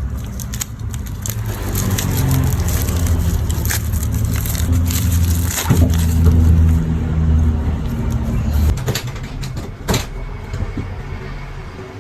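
Close-up crackling and crinkling of plastic packaging being handled, with many sharp clicks and a louder snap about ten seconds in.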